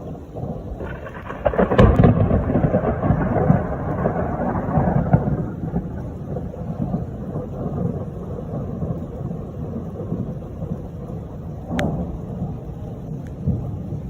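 A thunderclap breaks about a second in, loudest just after, then rolls off into a long low rumble over steady rain. There is a brief sharp crack near the end.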